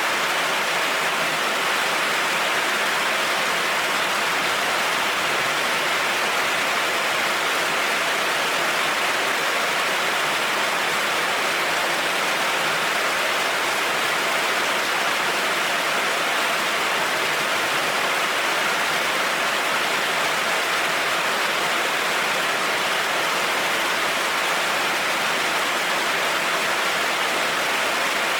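Heavy rain falling on a road, a steady, even hiss.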